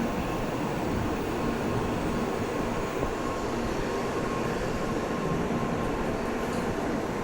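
Shinkansen train running out of the station, a steady rumble of wheels and motors with a faint thin whine.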